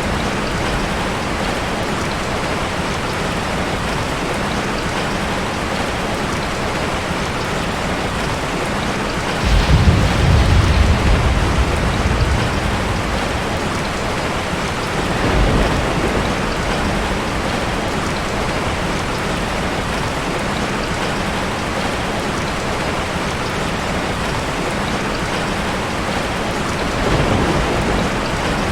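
Steady rain falling, with a loud low rumble of thunder about a third of the way in that lasts a few seconds. Two fainter rumbles follow, one around the middle and one near the end.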